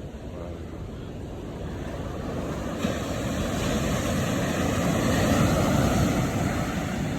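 Ocean surf: a wave swelling and washing in, loudest about five seconds in and easing off near the end, with wind on the microphone.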